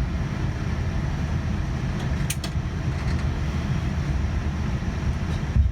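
Boeing 787-9 cabin while the jet taxis: a steady low rumble of the aircraft rolling, with a brief rattle a little over two seconds in and a thump near the end.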